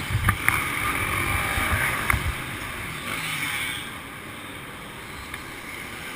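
Motocross bike engines running in an indoor hall, louder for the first two seconds or so and then fading to a lower steady drone, with a few knocks near the start.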